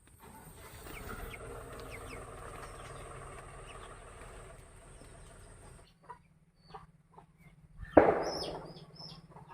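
Aseel chickens clucking and calling, with a sudden loud squawk about eight seconds in.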